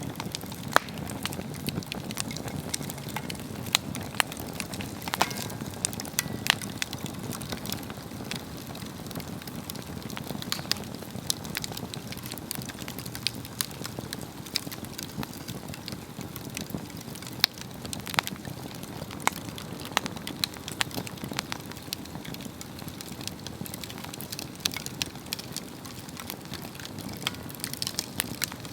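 Swedish torch, an upright log slit into sections, burning with a steady low flame noise and frequent sharp crackles and pops from the wood.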